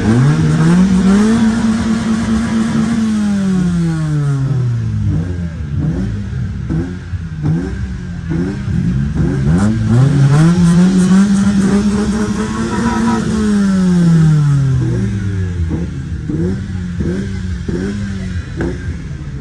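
Car engines revving: one engine is twice pushed up and held at high revs for a couple of seconds before dropping back, while other engines blip up and down in short revs around it.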